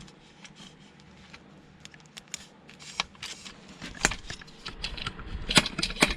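Metal parts clicking and knocking as an appliance's innards are worked loose by hand. The taps are light and sparse at first, then come thicker and louder in the last two seconds.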